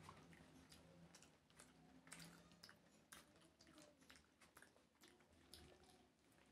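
Faint chewing of rice, with many short wet mouth clicks, and fingers gathering and mixing rice on a banana leaf.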